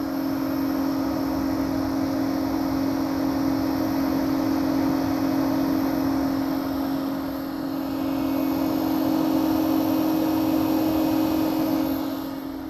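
Solar inverter's cooling fans running with a steady hum and whir, smooth and free of rattle now that a drop of sewing machine oil has been put on their hubs.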